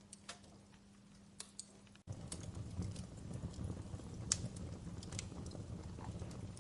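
Wood fire crackling, with irregular sharp pops and snaps. About two seconds in the sound drops out for an instant and a louder low rumble of burning comes in under the crackles.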